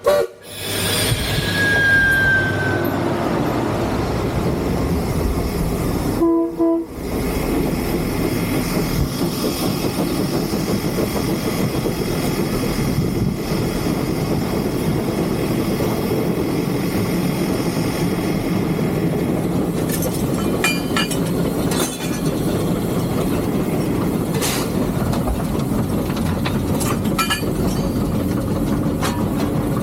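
Three-truck Shay geared steam locomotive running, heard from inside its cab: a steady dense rumble and hiss, with a short falling tone about two seconds in and scattered sharp clicks in the last third.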